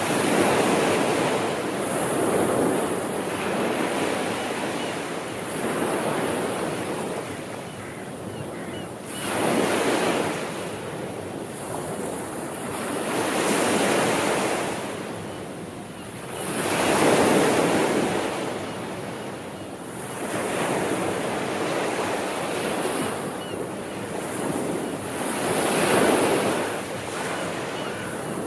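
Ocean waves breaking and washing up on the shore, the surf noise swelling and falling away in surges every three to four seconds.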